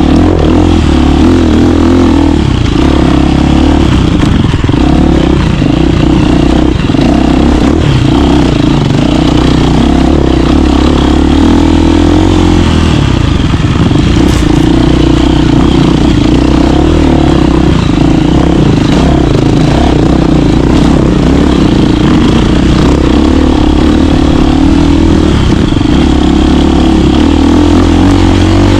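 KTM 350 dirt bike's single-cylinder four-stroke engine running steadily as the bike is ridden, loud throughout.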